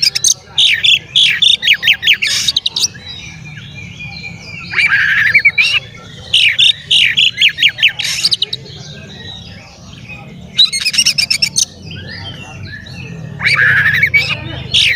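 Oriental magpie-robin (kacer) singing in full voice: four bursts of rapid, varied whistles and harsh chattering notes, each a second or three long, with short pauses between.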